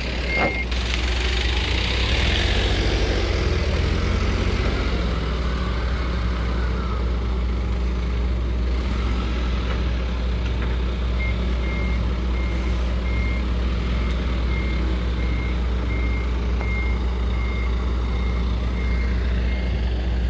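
Heavy truck's diesel engine running steadily, with a repeated high electronic warning beep, about two beeps a second, that stops just after the start and comes back about halfway through. A brief hiss a couple of seconds in.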